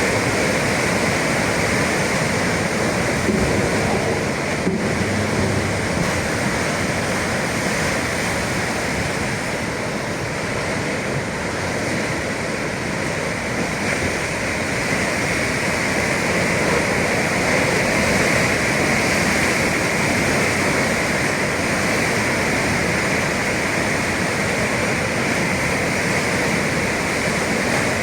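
Atlantic sea surf: a loud, steady wash of waves with only slight swells in level.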